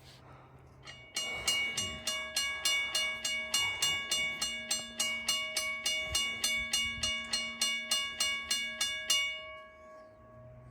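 Railroad crossing bell, switched on remotely, ringing with quick even strokes, about three a second. It starts about a second in and stops near the end, leaving a brief ring-out.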